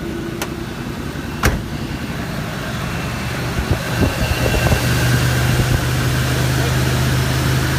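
1969 Buick Riviera's 430 V8 idling on the automatic choke just after a cold start, with a sharp click about a second and a half in. From about four seconds in, the engine note grows louder and steadier.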